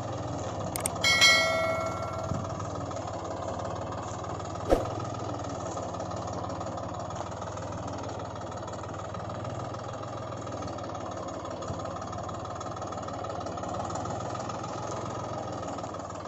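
Steady engine running sound at an idle, with a short metallic bell-like ring about a second in and a sharp click just before five seconds.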